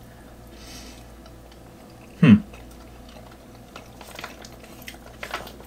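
A person chewing a mouthful of soft MRE rice and beans: scattered small wet clicks and lip smacks, mostly in the second half. About two seconds in comes one short, louder mouth sound that falls steeply in pitch.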